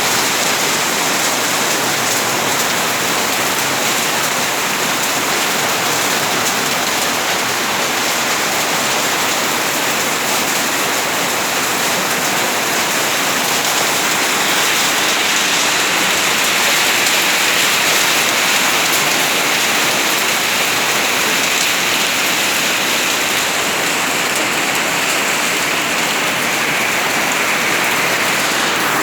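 Hail and rain falling heavily, a steady dense hiss of hailstones and drops striking surfaces.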